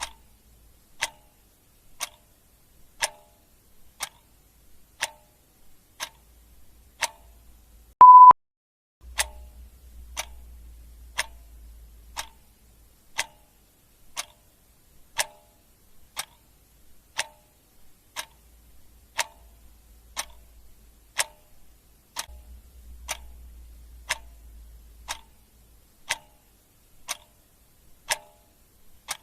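Clock ticking steadily, about one tick a second. A single short, high electronic beep sounds about eight seconds in.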